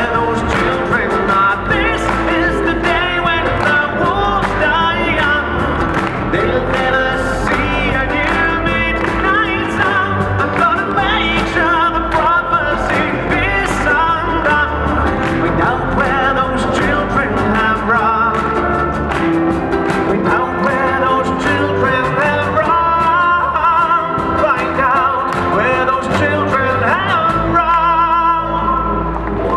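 Acoustic rock band playing live, steady full-band music through the closing stretch of the song.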